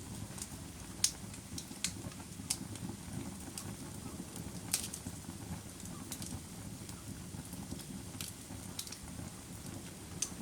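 Campfire burning: a steady low rush of flames with irregular sharp crackles and pops, roughly one every second or two, the loudest about a second in and near the middle.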